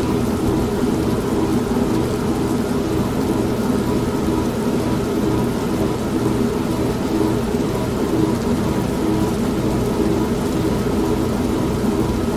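Old manual washing machine running with a steady motor hum, layered with continuous rain.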